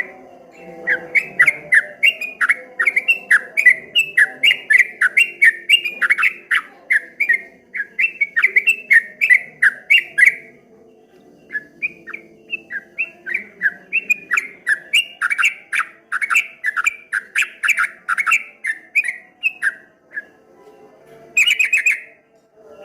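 Yellow-vented bulbul (trucuk) singing its rapid 'ropel' song: a fast run of repeated sweeping whistled notes, about four a second, in two long bouts with a short pause just past halfway. A brief harsher call comes near the end.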